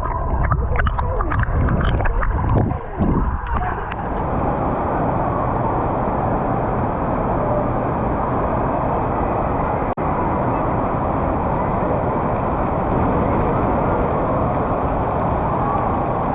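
Loud rushing water. It gurgles and splashes unevenly for the first few seconds, then settles into a steady rush.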